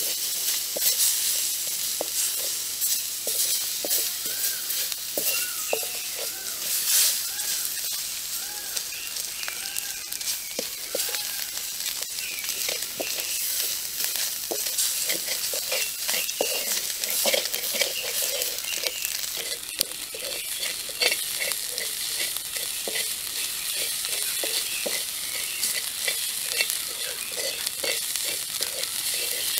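Chopped greens and eggs sizzling in a metal pan over a wood fire, stirred and scraped with a bamboo stick, with many short clicks of the stick against the pan.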